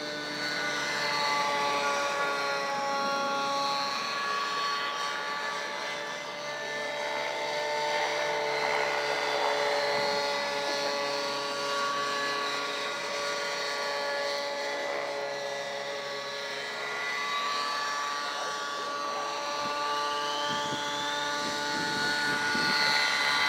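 RC helicopter flying 3D aerobatics: a steady high whine from its motor and rotors, with the pitch and loudness rising and falling gently as the pilot works the collective.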